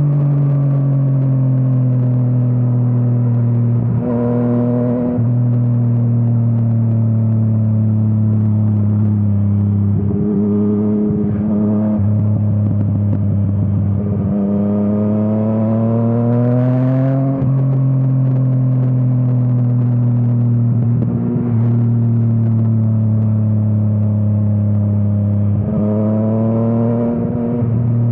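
Yamaha MT-09's inline three-cylinder engine through an Akrapovič exhaust, running under way with its note rising and falling with the throttle. Past the middle the pitch climbs for a few seconds, then drops suddenly.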